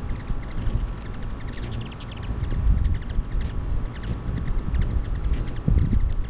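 A low, uneven rumble with many short, high ticks and chirps from hummingbirds at a feeder.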